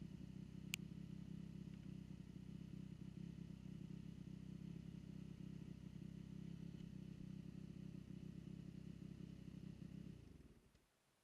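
Dirt bike engine idling with a steady low hum, with a single click about a second in. The engine dies away near the end as it is switched off.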